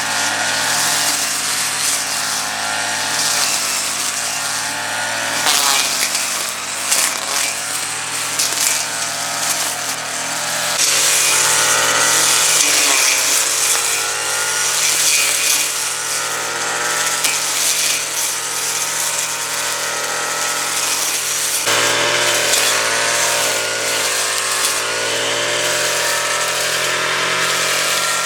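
A motorised power tool running steadily, its pitch wavering, with abrupt changes in sound about 5, 11 and 22 seconds in.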